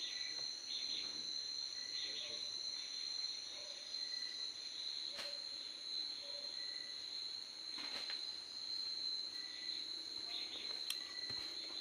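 Insects chirring in a continuous high-pitched drone, with a few faint clicks through it.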